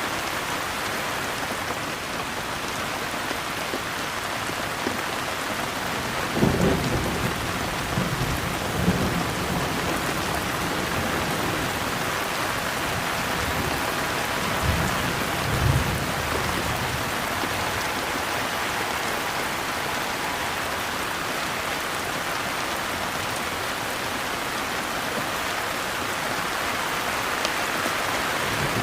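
Steady heavy rain with distant thunder rumbling twice, about a quarter of the way in and again near the middle.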